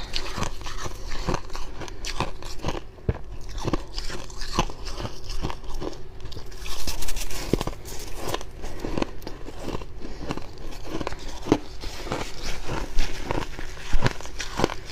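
Fluffy freezer frost being bitten and chewed close to the microphone: a steady run of dry crunches, with a louder burst of crunching about seven seconds in.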